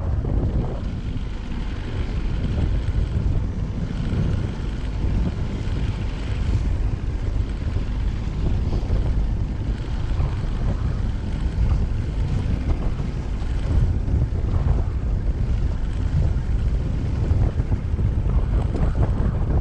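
Strong wind buffeting the microphone: a heavy, uneven low rumble that swells and eases throughout.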